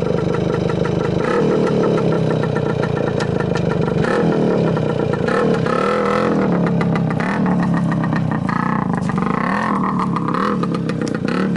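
Trials motorcycle engine running and being blipped, its pitch rising and falling again and again in short revs through the second half.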